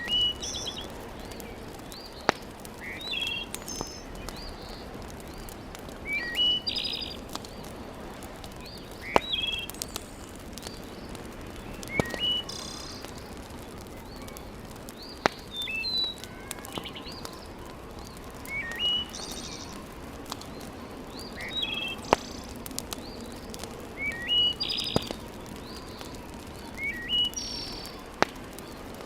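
A songbird repeating short chirping phrases about every three seconds. Beneath it runs a steady low hiss, broken now and then by a single sharp pop from a crackling wood fire.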